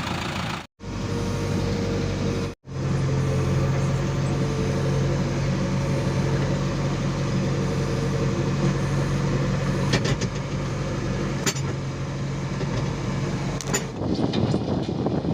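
JCB 3DX backhoe loader's diesel engine running steadily under load, with a few sharp clanks after about ten seconds. The sound cuts out for an instant twice in the first three seconds.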